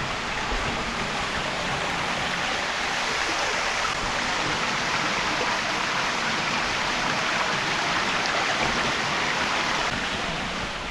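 Cave waterfall splashing steadily, a dense rushing of falling water that eases slightly near the end.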